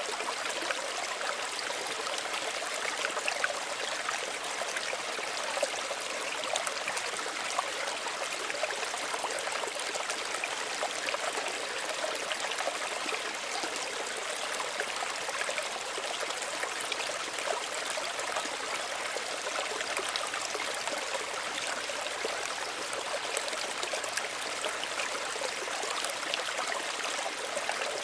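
Small stream running steadily, a continuous babble and trickle of water over stones with many small splashes and gurgles.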